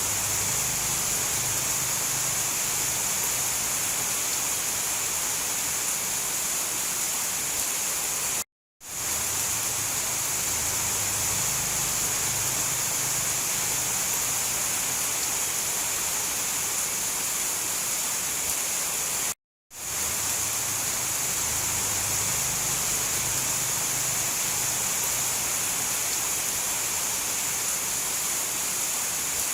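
Steady heavy rain, a dense even hiss, that cuts out to silence for a moment twice, about eleven seconds apart.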